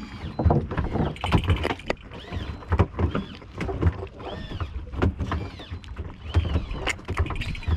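Irregular knocks, clatter and low thuds aboard a small fishing boat, with repeated short squeaks that rise and fall in pitch.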